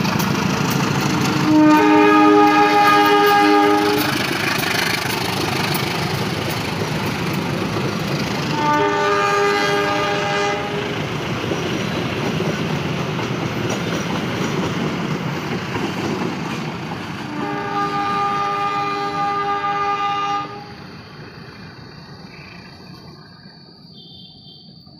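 Train horn sounding three blasts of two to three seconds each over the loud rumble of a train rolling past. The rumble drops off abruptly about twenty seconds in.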